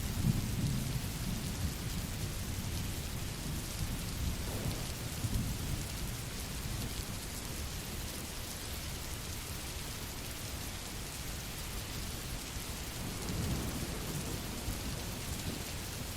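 Steady rain with low rolls of thunder: one at the start, another about five seconds in, and a longer one about thirteen seconds in.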